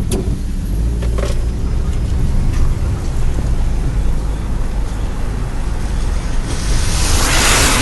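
Road and engine noise of a moving car heard from inside the cabin, a steady low rumble with a couple of light knocks about a second in. Near the end a loud rush of noise swells up.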